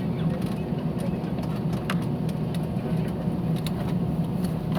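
Airliner cabin noise: the jet engines and rushing air heard from inside the passenger cabin, a steady low hum with a few faint clicks.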